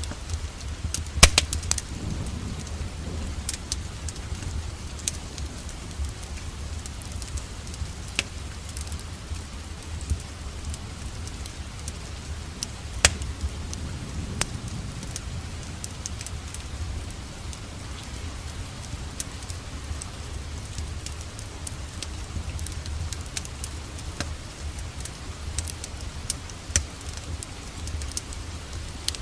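Wood fire in a fireplace crackling with scattered sharp pops, over a steady hiss of falling rain and a low rumble.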